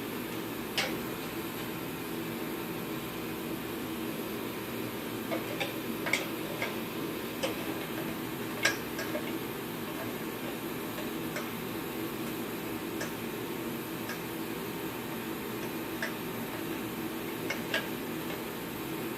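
Sparse, sharp clicks and taps of small parts being handled during hand work on a kerosene torpedo heater's fuel lines, over a steady background hum.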